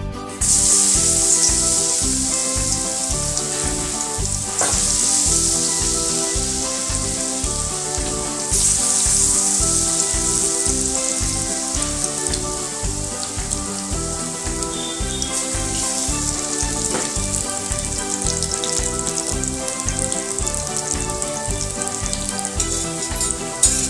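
Besan-battered Malabar spinach (poi) leaf pakoras frying in hot oil in a kadhai: a steady sizzle. Background music with a steady beat plays underneath.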